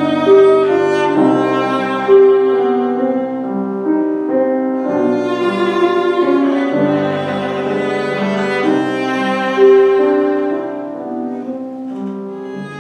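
Classical music played live: a bowed string instrument plays a slow melody of long held notes over piano accompaniment, with a few strongly accented note attacks.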